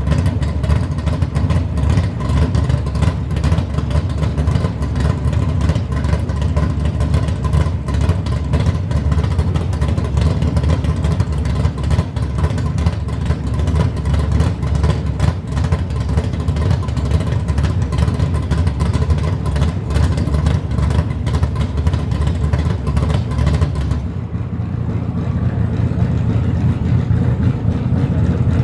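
Drag-car engines idling with a loud, steady, pulsing rumble while waiting at the line. About 24 seconds in, the higher part of the sound cuts off suddenly, leaving a lower rumble.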